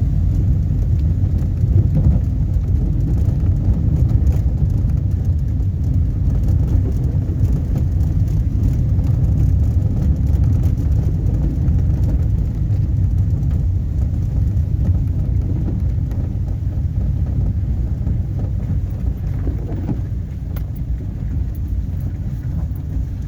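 Heavy rain falling, heard as a steady, loud wash of noise with a deep low rumble under it and no pauses.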